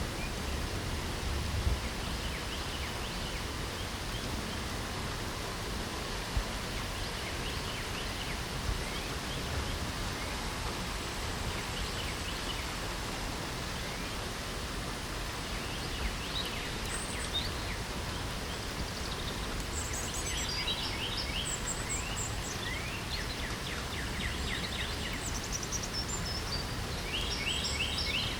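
Steady rain hiss with birds singing over it: scattered faint chirps at first, then busier rapid trills of short high notes in the second half.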